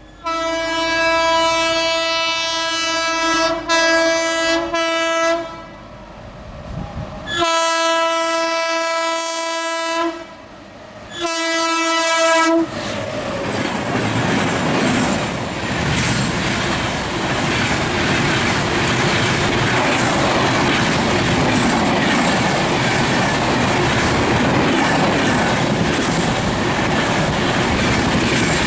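Train horn sounding three long blasts, the first about five seconds long, then the train passing at speed with a steady rushing rail noise and clickety-clack of wheels over rail joints.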